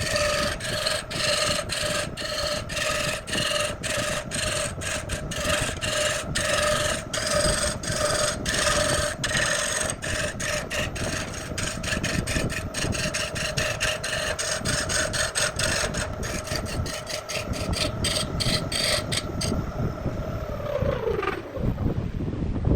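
Wood lathe running with a steady hum while a cutting tool rasps against the spinning wood. Near the end the hum falls in pitch as the lathe spins down.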